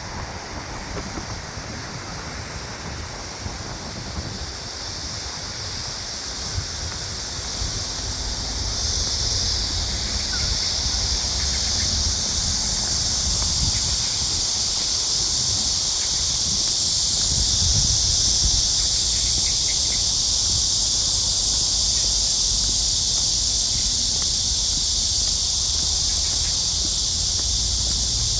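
Chorus of cicadas singing, a steady high-pitched drone that swells louder over the first quarter of a minute and then holds, with low wind rumble on the microphone underneath.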